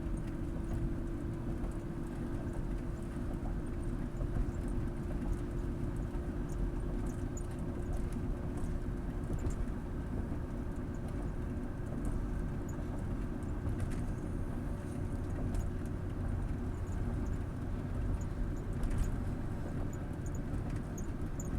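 Steady road and engine rumble of a moving car, with a few faint clicks.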